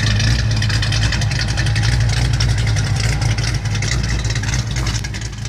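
1989 Mustang LX engine with a mild cam idling through Spintech mufflers, a steady low exhaust note that wavers slightly, easing a little near the end.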